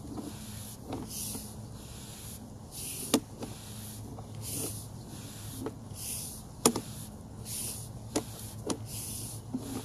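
Sewer inspection camera push cable being fed down the pipe: a hiss that swells and fades about every second and a half, with scattered sharp clicks and knocks over a steady low hum.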